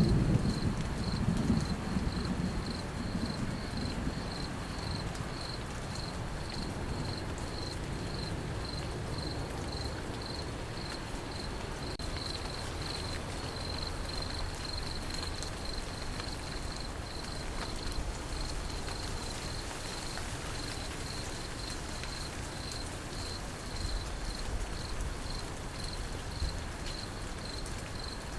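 Crickets chirping in a steady high pulsing trill over a soft, even sound of rain, with the tail of a thunder rumble dying away in the first couple of seconds.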